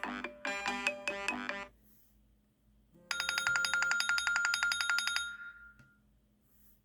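An iPhone ringtone with a short repeating melodic phrase ends under two seconds in. After a pause, an old-telephone-bell ringtone plays a fast, even run of bell strikes for about two seconds and then fades.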